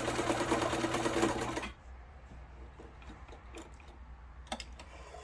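Kenmore 148.12210 sewing machine running steadily and quietly while sewing a zigzag stitch, stopping abruptly about a second and a half in. A few faint clicks follow.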